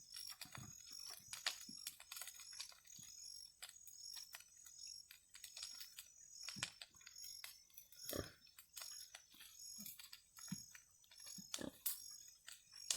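Faint, irregular clicking and crackling, with a few short low grunts from a pig.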